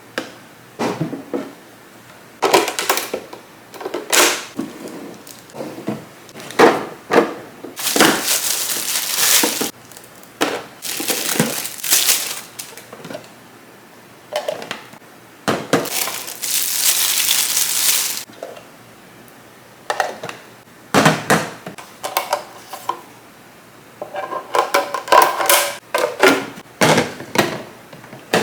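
Plastic fridge containers and their packaging being handled. Sharp clicks and knocks of hard plastic run throughout, with two longer stretches of crinkling wrapping about eight and sixteen seconds in. A quick run of light clinks comes near the end.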